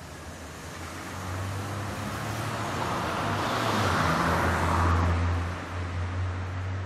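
City street traffic: a single vehicle passes close by, its tyre and engine noise swelling to a peak about four to five seconds in and then fading, over a steady low hum of traffic.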